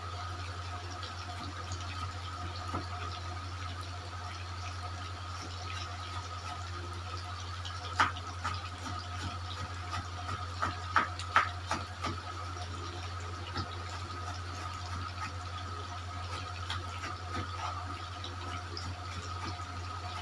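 Steady hiss of chicken frying in hot oil, over a low hum. A few sharp knocks of a knife on a cutting board come about eight seconds in and again in a quick cluster a couple of seconds later, as capsicum is chopped.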